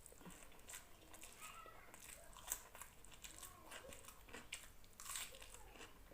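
Faint close-up eating sounds of rice and chicken curry: chewing and small mouth clicks and smacks, with one sharper click about two and a half seconds in.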